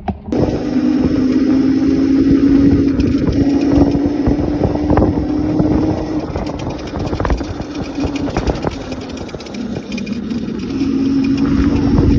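Electric dirt bike conversion riding along: a steady electric motor whine over rough wind and road noise, starting abruptly. The whine drops away about eight seconds in and comes back near the end.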